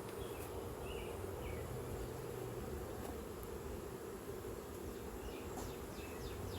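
Honeybees buzzing around their hive, a steady hum.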